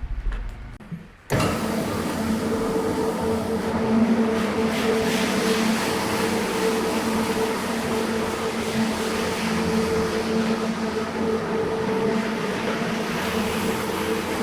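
A cleaning machine's motor switches on abruptly about a second in and runs steadily with a hum over a broad rushing noise. A few knocks come just before it starts.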